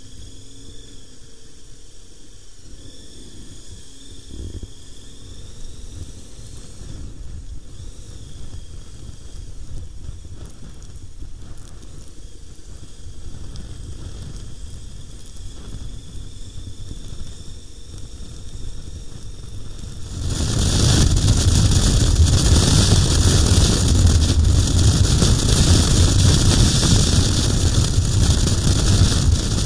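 KTM 1090 R motorcycle on the move, with road and wind noise rushing over the microphone. The noise jumps much louder about twenty seconds in and stays loud.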